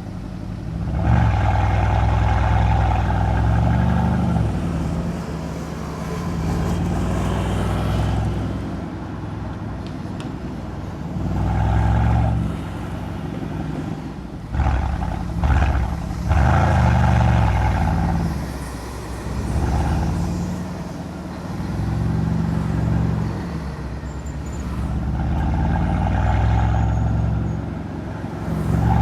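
Mercedes-AMG C63's M177 twin-turbo V8 exhaust under way, swelling under acceleration and falling back off the throttle several times, with a few short sharp cracks in the middle.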